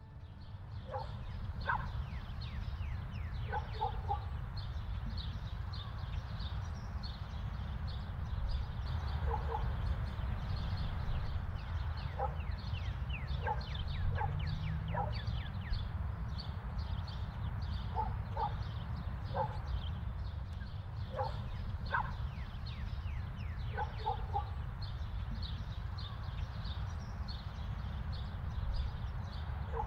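Outdoor bird ambience: many short calls and quick falling chirps from several birds, over a steady low rumble.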